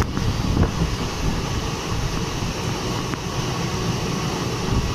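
An express passenger train running at speed on its rails, heard from the coach's open doorway: a steady low rumble with wind buffeting the microphone, and a few faint clicks from the track.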